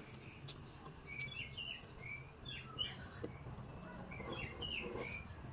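Birds chirping in short, scattered calls, over a low steady hum with a few faint clicks.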